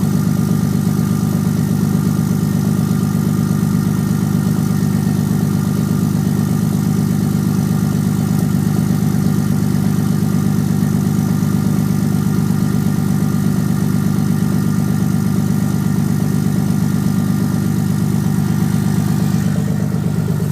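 Engine of a 2007 Ram 3500 pickup idling steadily just after a cold start, with the engine still cold after sitting two days in sub-freezing weather.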